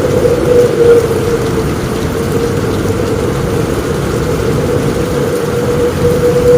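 Steady heavy rain falling on a roof, with a constant low rumble and a steady hum underneath.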